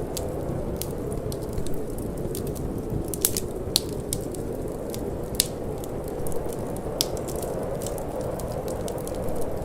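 Wood fire burning in a fireplace: irregular sharp crackles and pops over a steady low rush of flame, with the low hiss of wind mixed in.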